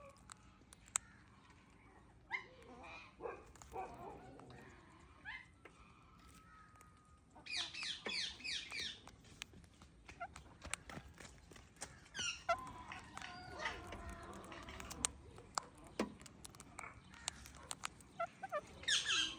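Pet parrot clicking, with sharp single clicks scattered throughout and bursts of fast repeated chirping calls, the longest about a third of the way in, another just past the middle and one near the end.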